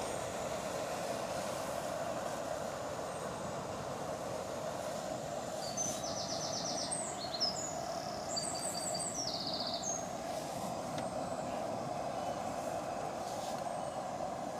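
A steady, even rushing noise throughout, with a small bird singing two or three quick, high trilled phrases in the middle.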